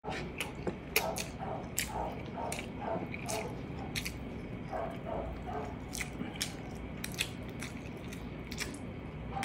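A person chewing and smacking while eating rice and braised pork ribs by hand: a steady chewing rhythm of about two to three chews a second, with frequent sharp mouth clicks.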